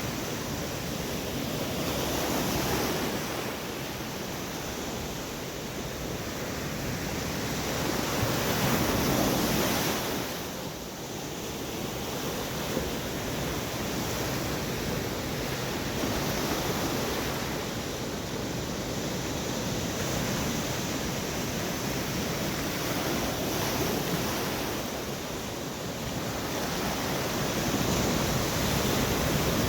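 Storm waves crashing and washing on the shore in repeated surges, swelling and easing every several seconds, with strong wind over the microphone.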